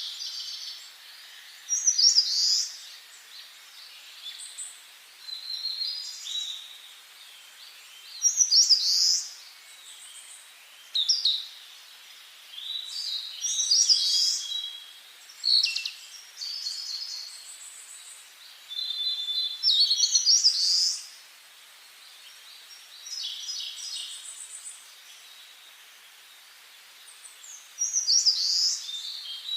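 Songbirds singing in the forest: short, high, varied song phrases of a second or two, repeating every few seconds over a faint steady background hiss.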